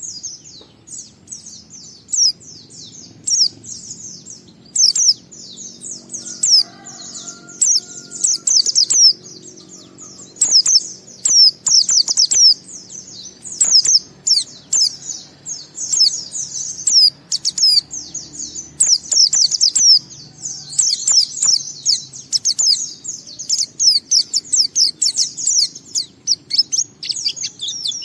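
White-eye (pleci) singing a fast, unbroken run of high, quick down-slurred notes: the long continuous 'ngalas' song.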